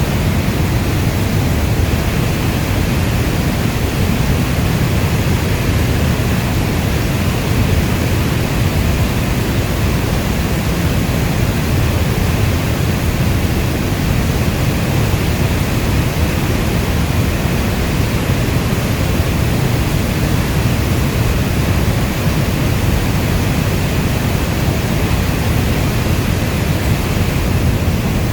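Steady, heavy rainfall as a dense, unchanging hiss, strongest in the low rumble, with no single drops or thunder standing out.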